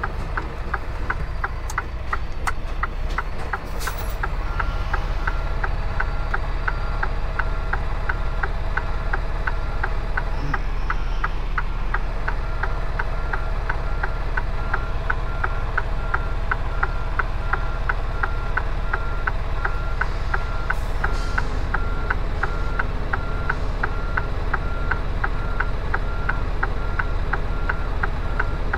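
Semi truck's diesel engine running low and steady while a reverse backup alarm beeps about twice a second: the truck is reversing. A few short clicks or hisses break in about four seconds in and again around twenty seconds.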